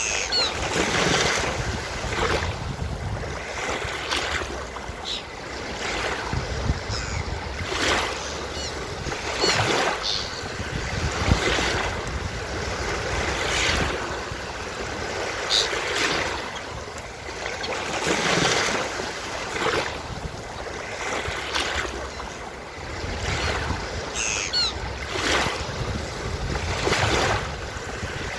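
Ocean waves breaking and washing on a beach, swelling and falling every few seconds, with a few short high seagull cries now and then.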